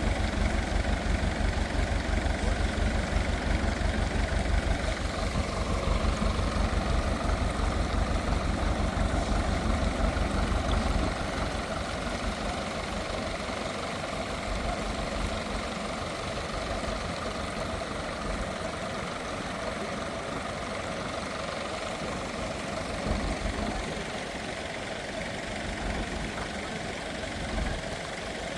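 An engine running steadily, with a heavy low throb that drops away about eleven seconds in, leaving a quieter steady running sound.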